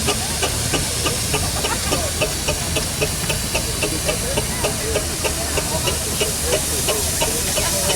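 Steam traction engine running with a steady hiss of steam over a low rumble, and a light, regular ticking beat at about three a second.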